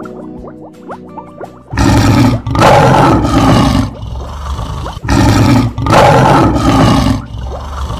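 Two lion-roar sound effects, each about two seconds long and a few seconds apart, over soft plucked harp music.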